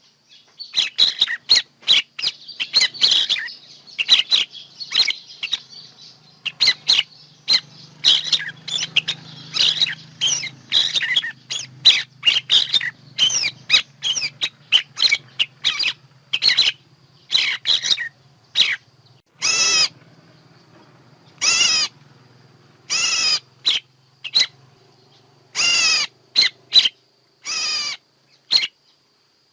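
Songbirds calling: many rapid, high chirps and trills, then from about twenty seconds in, several longer calls repeated every second or two. This is a bird-call recording of the kind played as a lure for trapping birds.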